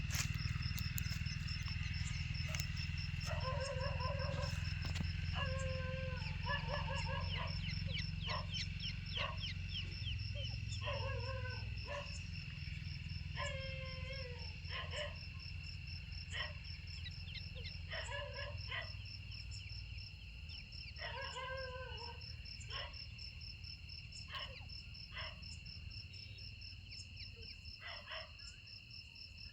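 Crickets trilling steadily, with an animal giving a run of short calls, one every second or two, that thin out near the end. A steady low hum sits underneath.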